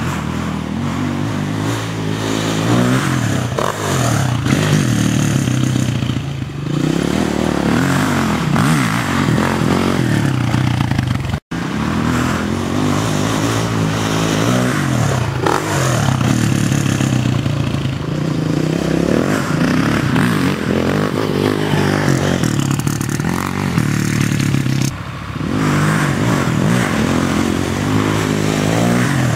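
450cc single-cylinder four-stroke sport quad engines revving hard and easing off again and again, the pitch rising and falling as the ATVs ride and jump. The sound drops out for an instant about eleven seconds in.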